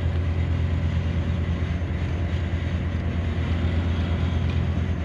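A large engine running steadily, an even low drone with no change in speed.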